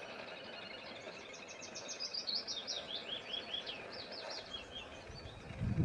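Songbirds singing: a quick run of high, repeated notes in the middle, with a few more scattered notes before and after, over a faint background hiss. A short low rumble comes at the very end.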